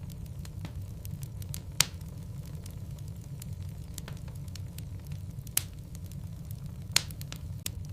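Wood logs burning in a fireplace, crackling with scattered small snaps and a few louder pops, about three in all, over a steady low rumble.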